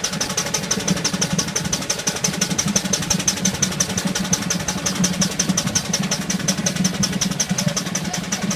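Miniature Ruston Proctor steam traction engine running along the road, its motion and exhaust making a rapid, even beat that holds steady throughout.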